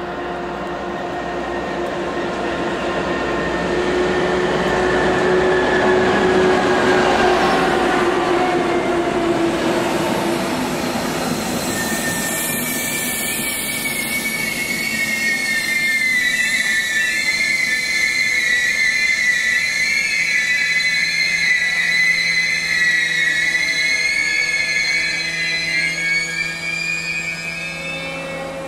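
A heavy class 232-type diesel locomotive runs past hauling a train, its engine note dropping as it goes by. Then passenger coaches roll slowly through a curve with the wheels squealing in high, wavering tones.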